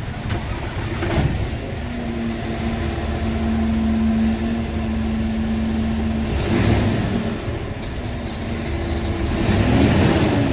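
Scania R tractor unit's diesel engine running steadily, with two short hisses of air about six and a half and ten seconds in, each with a change in the engine note.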